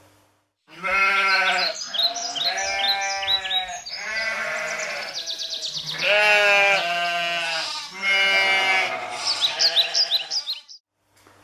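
Sheep bleating: several wavering calls overlapping one another. They start about a second in and cut off abruptly near the end.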